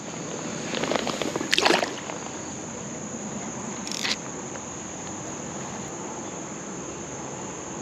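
Steady high-pitched chorus of insects trilling by a creek. There are a couple of brief splashy noises of water, the loudest about a second and a half in.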